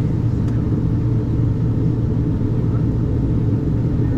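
Steady low rumble of cabin noise inside an Embraer 190-E2 airliner with its engines running.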